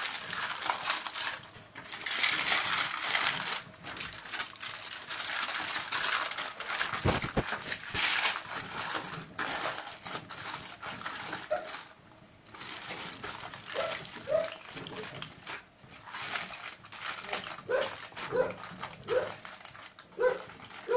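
Kitchen foil crinkling and rustling, then a dog whimpering in short high whines, repeated about once a second from about halfway through.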